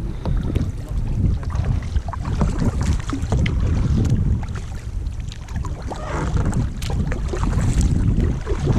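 Wind noise on the microphone, with kayak paddles splashing and dripping in the water.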